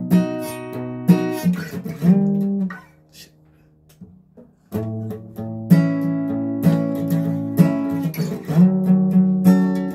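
Guitar played in strummed chords, each chord ringing for about a second. The playing stops for about a second and a half partway through, then resumes.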